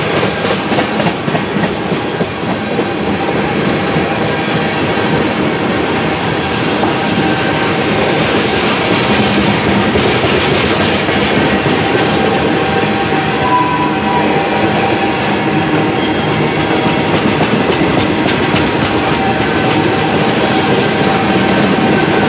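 A train's cars rolling past close by, with a steady clickety-clack of wheels over the rail joints and a constant rumble, plus faint steady tones from the wheels.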